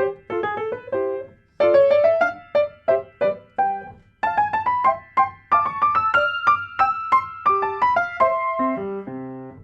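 Background music: a solo piano playing a light, lilting melody of quick notes, ending on a low note near the end.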